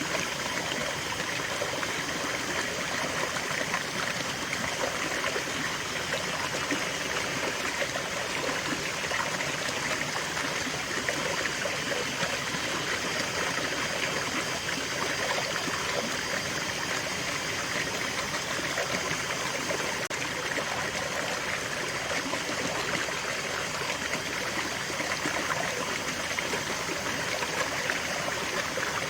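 Shallow river water flowing and babbling steadily over rocks, an even rushing with fine trickling and splashing texture.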